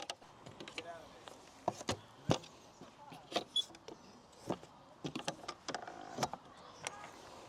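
Irregular clicks and knocks of things being handled and set down, a few a second, some sharper than others.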